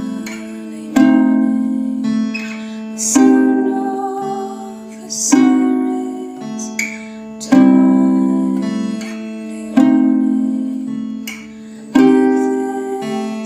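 Acoustic guitar chords strummed slowly, one every two seconds or so, each left to ring out and fade before the next, over a steady low note.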